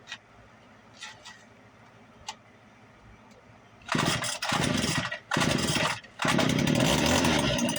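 A few light clicks, then about four seconds in a small two-stroke engine of the weed-whacker or chainsaw type starts from cold. It falters twice and then keeps running.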